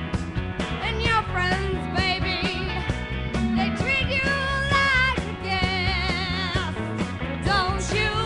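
Rock music: a high melody with heavy vibrato wavers over steady bass and drums.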